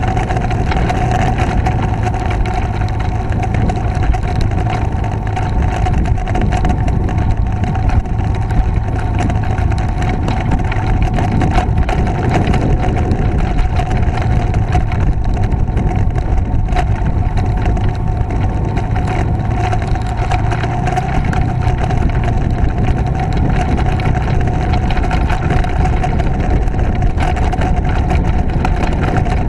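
Motorcycle engine running steadily while riding, with wind rumbling on the microphone and a steady whine.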